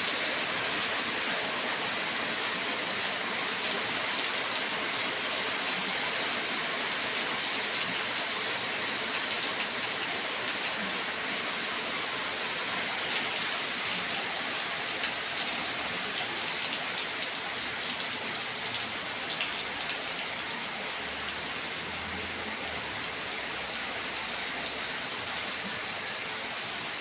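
Steady heavy rain falling, with scattered sharp ticks of drops landing close by.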